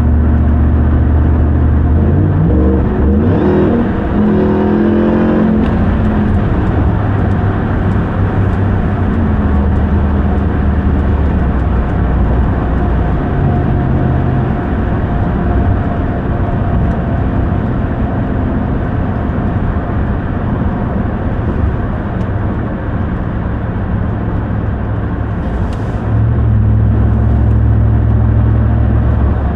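Ram 1500 TRX's supercharged 6.2-litre Hemi V8 under way: a few seconds in the engine revs up with rising pitch as the truck accelerates, then settles into a steady drone with road noise. Near the end the low engine note grows louder again.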